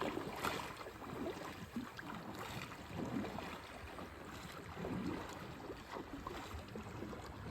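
Faint water sounds of a kayak being paddled: soft, irregular splashes and drips of the paddle blades over a steady faint hiss.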